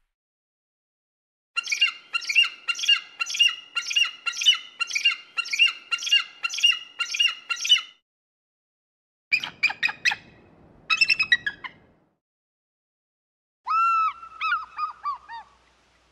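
Bird calling: a fast run of repeated calls, about two a second for some six seconds, then two short bursts of calls, and near the end a series of downward-slurred notes.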